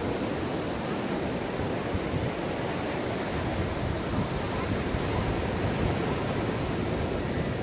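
Ocean waves washing onto a beach in a steady rush of surf, with some wind on the microphone.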